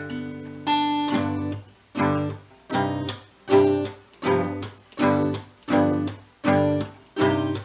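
Acoustic guitar strummed in a steady rhythm, about two chord strokes a second, each one short and quickly damped.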